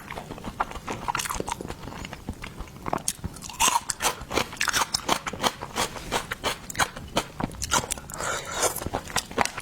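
A person chewing and crunching food in the mouth close to the microphone, a steady run of irregular wet clicks and crunches.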